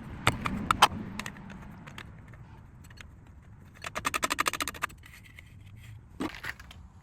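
Hand tools and metal parts being handled during engine reassembly: a few sharp clicks and knocks at the start, then about a second of rapid, evenly spaced clicking midway, and another couple of knocks near the end.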